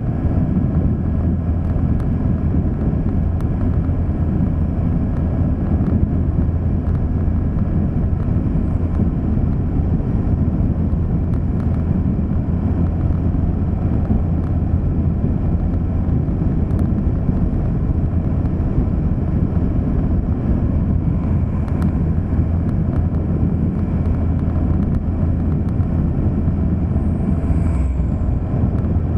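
A vehicle driving along, with steady low road and engine noise and wind on the microphone.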